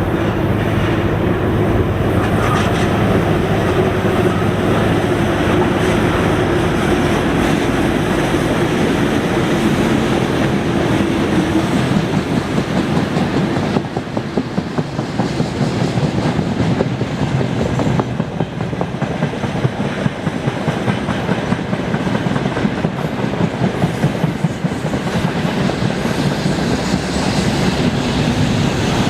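Freight train hauled by VL11 electric locomotives passing close by. A steady hum over the rolling noise for about the first twelve seconds, then the quick, regular clickety-clack of wagon wheels over rail joints.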